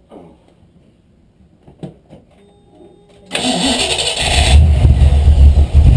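Carbureted 5.0-litre V8 cranked by its starter motor about three seconds in; it catches within a second and runs loud and steady, with the distributor loosened while the ignition timing is being set.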